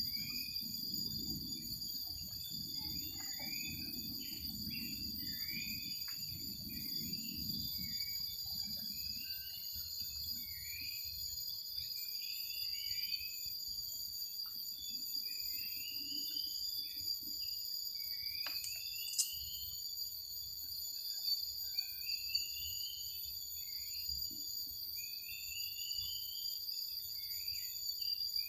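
A night forest insect chorus, crickets among them, holds several steady high-pitched tones throughout. Over it a bird gives short rising calls, about one a second, all through. A low rumble sits under the first several seconds and then fades.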